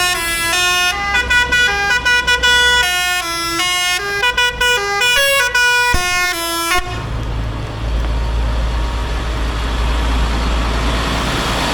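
A musical vehicle horn playing a tune of short stepping notes for about seven seconds, then stopping suddenly. A steady low engine rumble of vehicles continues after it.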